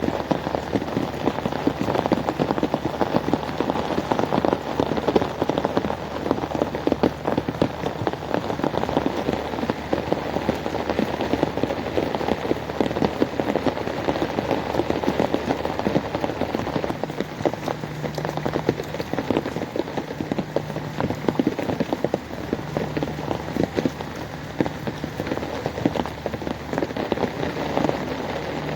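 Steady heavy rain falling on a surface, a dense, unbroken stream of drop impacts. A faint low hum comes and goes in the second half.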